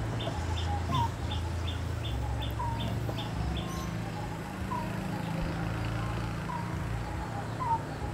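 Birds calling: a quick series of short high chirps, about three a second, that stops about three seconds in, and a short falling call about once a second, over a steady low hum.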